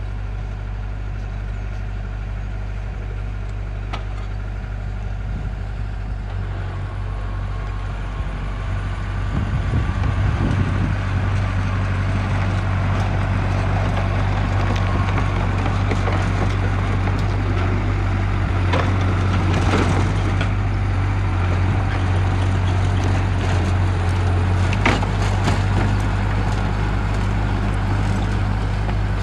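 Diesel engine of heavy earthmoving machinery running steadily and coming under more load about a third of the way in, with a few sharp cracks and crunches of material being pushed or crushed.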